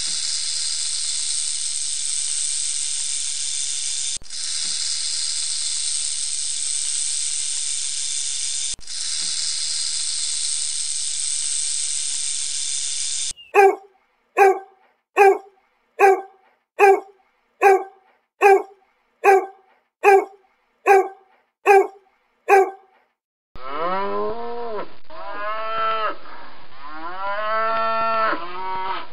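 Three animal sounds one after another: a steady, even insect buzz from a cricket for the first half, then a puppy barking about a dozen times at an even pace, a little under one bark a second, then a cow mooing in long calls that rise and fall in pitch.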